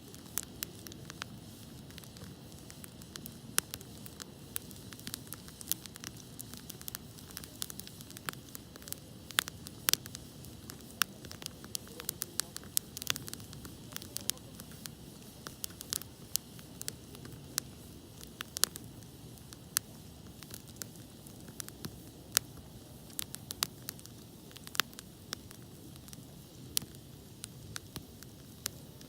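Wood fire crackling in a Picogrill 398 fire pit: irregular sharp pops and snaps, several a second, over a steady low rush of burning.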